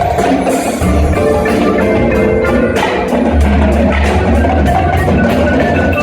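Indoor winds ensemble playing with percussion: held wind-instrument chords over quick, sharp percussion strokes, and a heavy low bass comes in about three seconds in.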